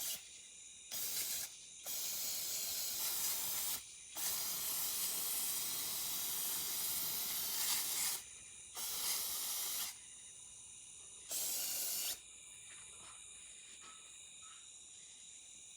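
An aerosol can of parts cleaner sprayed in five bursts at wasps, the longest running about four seconds, with a steady hiss each time.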